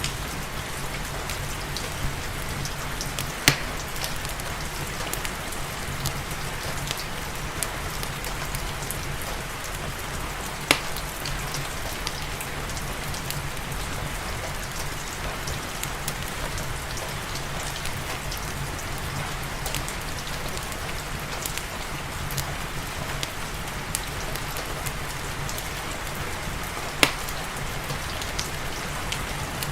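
Steady rain mixed with a crackling wood fire in a fireplace. Small crackles run throughout, and three sharp pops stand out: a few seconds in, about a third of the way through, and near the end.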